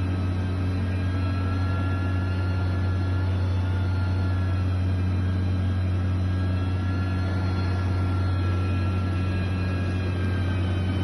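Heavy construction machinery engine running steadily with a low, even drone.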